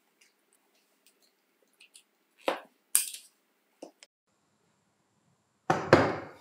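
Small hard parts and tools clinking and knocking: scattered light clicks, two sharper knocks about halfway through, and a louder rattling clatter near the end.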